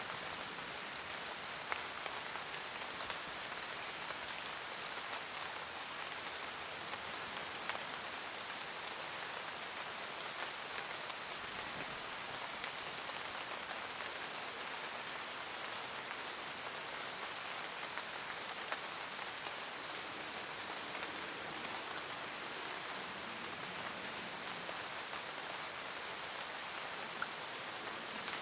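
Steady rain falling in a forest, a dense even patter with scattered individual drops ticking out of it.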